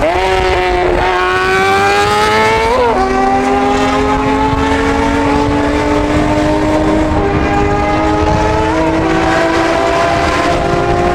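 Twin-turbo Nissan 350Z's V6 under load at speed, its note climbing slowly and steadily, with brief dips about three seconds in and again near nine seconds.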